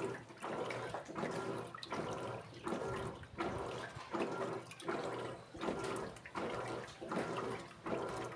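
Electrolux Essential Care 14 kg top-loading washing machine agitating clothes in water during the wash: regular swishing strokes, a little more than one a second, with short pauses between them.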